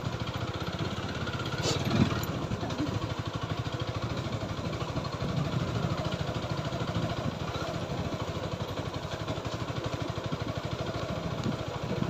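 TVS Apache 4V motorcycle's single-cylinder engine running steadily, with a brief knock about two seconds in.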